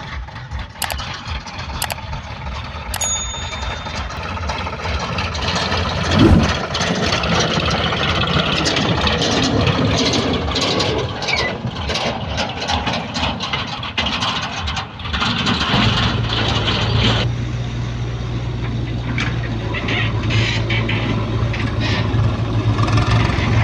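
Diesel engine of a JCB 3DX backhoe loader running as it digs and loads soil, with a heavy thump about six seconds in. From about sixteen seconds the engine settles into a steadier low drone.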